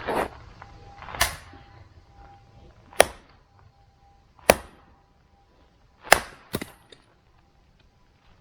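A series of sharp knocks or cracks: five strikes, roughly a second and a half apart, the last two close together.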